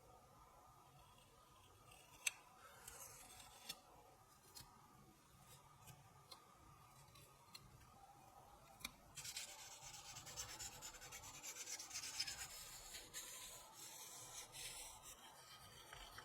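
Faint workshop handwork: a few scattered light clicks and taps, then about six seconds of steady scratchy rubbing, like abrasive or filing work on a part.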